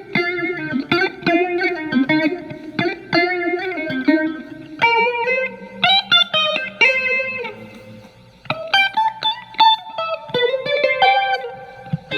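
Fender Telecaster with alnico single-coil pickups played through a Marshall MG15FX amp's clean channel with its phaser effect on: picked single notes and short chords, with a brief lull about eight seconds in.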